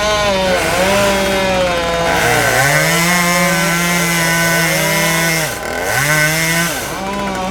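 Two-stroke chainsaw cutting a limb, its engine pitch dropping as the chain bites into the wood and climbing again as it frees up. A long steady cut runs through the middle.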